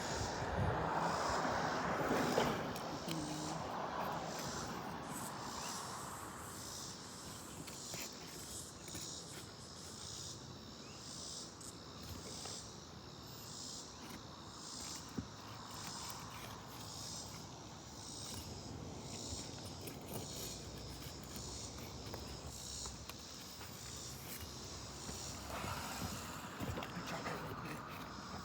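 Insects chirping in steady, evenly repeating high-pitched pulses, about one to one and a half a second, typical of crickets or katydids. A louder rustling noise fills the first three seconds.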